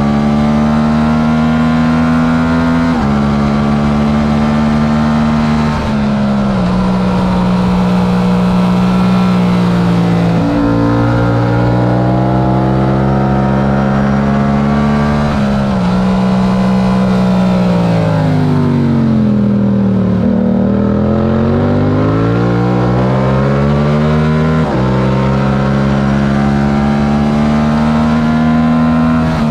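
Yamaha R7's 689 cc parallel-twin engine under hard acceleration on track, its note dropping in steps at each upshift. About two-thirds through the revs fall away as it slows, then climb again, with another upshift near the end.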